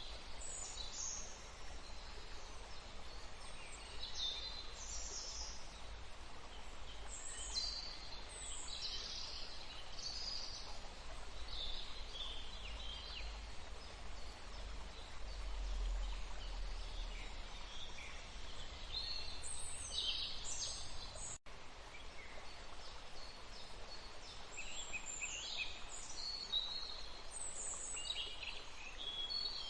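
Small birds chirping and twittering in short high calls every second or two over a steady background hiss, with a faint low rumble.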